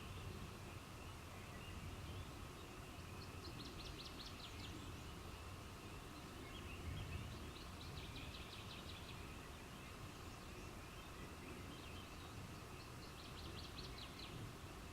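A bird's high, fast trill, given three times about every four to five seconds, over a faint steady night-time background.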